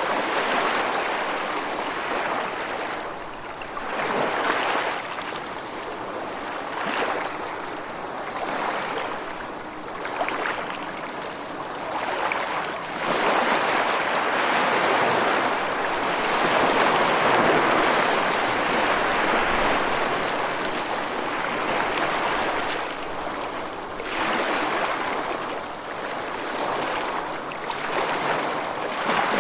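Rushing water: a dense, steady hiss that swells and eases every few seconds, with no thunder heard.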